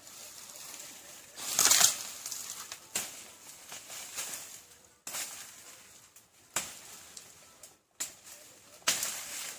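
Rustling and crunching in dry vegetation with irregular knocks, about one every second or two, the loudest about two seconds in.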